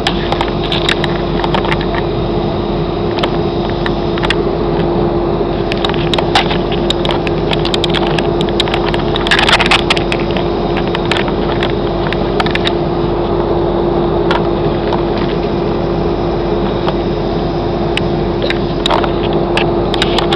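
Airliner cabin noise from inside the plane: a steady engine noise with a constant hum, scattered with frequent small clicks and crackles and one brief louder rush about halfway through.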